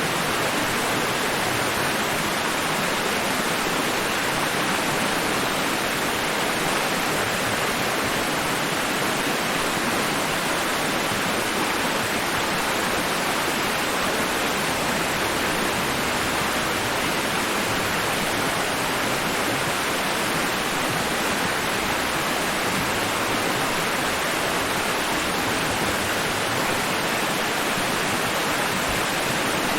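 Steady, even rushing hiss of a white-noise sleep track, like a waterfall, holding one level with no rise and fall of breaking waves.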